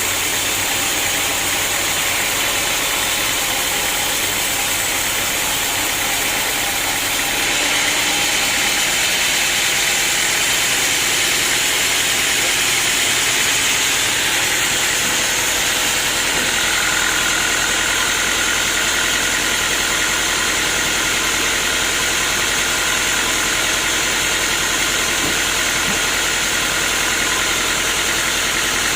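Sawmill saw and its drive running steadily. It grows louder and harsher about seven seconds in, and a steady high whine joins about halfway through.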